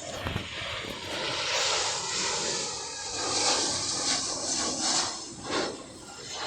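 Airliner passing overhead, a dense jet rush that swells to a peak about halfway through and then eases off.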